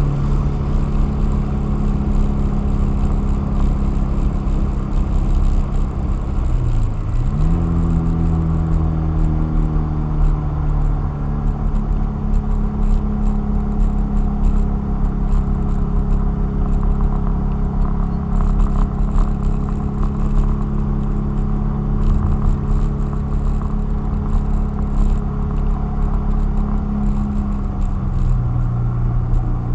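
Car engine under load at speed, heard from inside the cabin over road noise. Its pitch dips and then climbs sharply higher about seven seconds in, holds steady, and drops again near the end.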